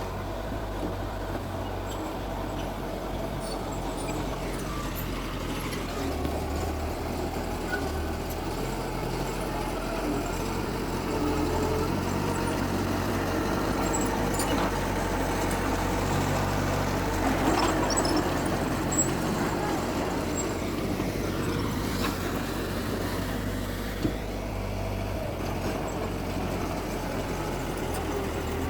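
Heavy diesel earthmoving machinery running steadily with a low engine hum. The engine gets a little louder for a couple of seconds past the middle, and there is one short sharp knock near the end.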